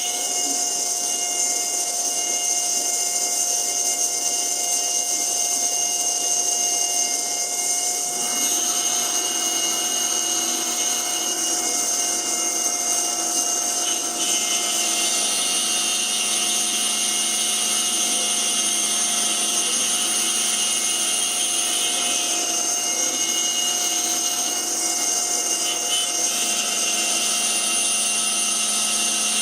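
CNC router spindle running steadily with a high whine while it mills a wooden ring insert. The cutting sound shifts about 8 seconds in and again about 14 seconds in as the tool's load changes.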